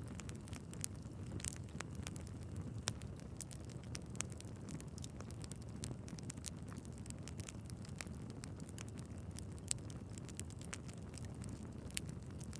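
Wood fire burning in a fireplace: a steady low rumble of the flames with irregular crackles and pops from the logs, a few louder snaps among them.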